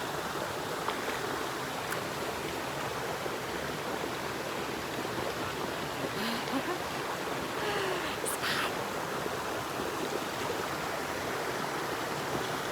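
Steady rush of flowing spring water over small cascades.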